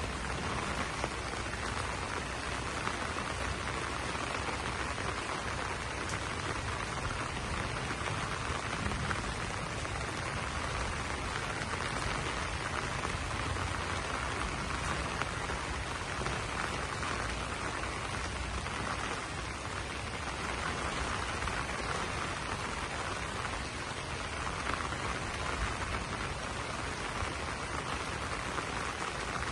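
Rain falling on banana leaves, a steady even hiss that holds without a break.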